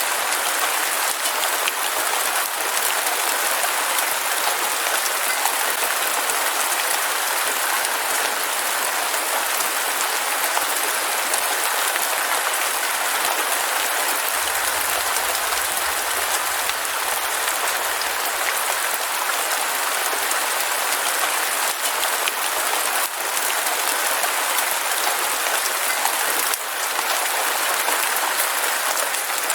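Heavy rain falling steadily, a dense, even patter with almost no low rumble.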